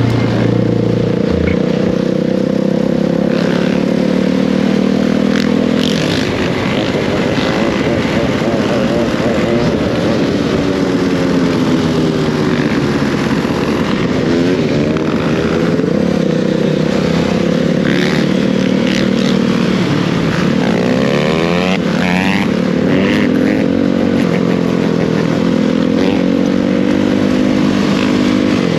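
Dirt bike engine running while riding, its pitch rising and falling again and again with the throttle, with a few quick rev sweeps near the end.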